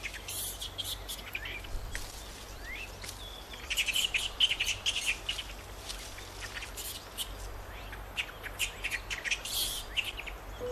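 Forest ambience with small birds chirping in quick runs of high notes, busiest about four seconds in and again late on, over a faint steady low hum.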